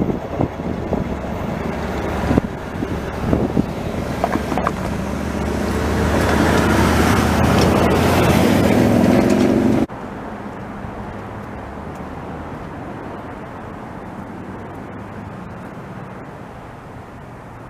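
Passing train with scattered clicks and knocks, its noise swelling to a loud peak and cutting off suddenly about ten seconds in. A quieter steady rumble follows and slowly fades.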